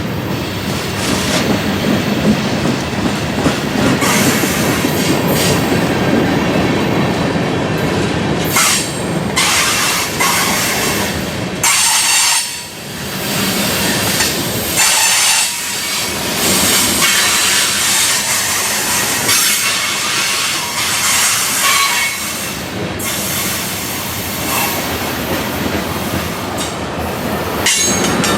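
Freight train rolling past, its steel wheels clattering over the rails with some high-pitched wheel squeal, most clearly near the end.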